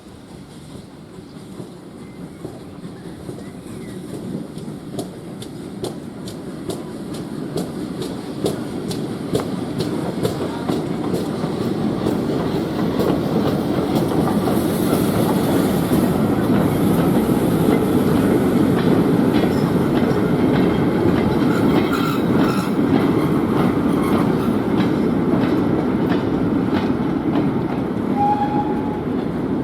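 A train approaching and rolling past, growing louder over about twelve seconds and then running steadily, its wheels clicking over the rail joints.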